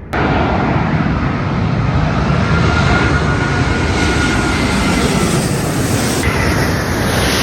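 Jet engines of a Qantas Airbus A380 on landing approach passing low overhead: loud, steady jet noise that starts suddenly. A thin high whine rides on top and steps up in pitch near the end.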